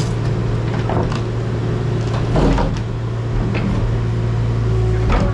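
Excavator's diesel engine running steadily, with scattered knocks and short squeaks from the machine at work.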